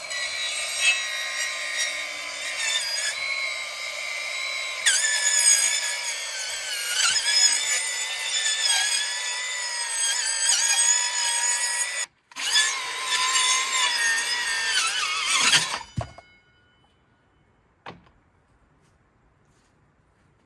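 Electric power saw running and cutting through wood, its pitch dipping now and then under load. It stops briefly about twelve seconds in, runs again, then cuts out and winds down, followed by two single knocks.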